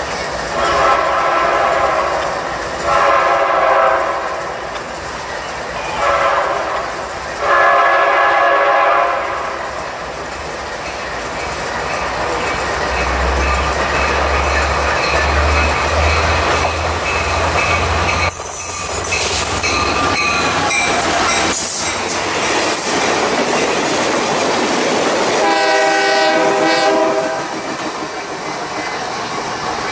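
Passenger train horn sounding the grade-crossing signal, long, long, short, long, as the train approaches. The train then passes at speed, its locomotive engine rumbling and its wheels clattering over the rail joints. Another horn blast sounds near the end.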